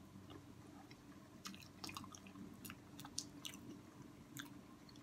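A person chewing food close to the microphone: faint wet mouth clicks and smacks, bunched together through the middle, over a faint steady hum.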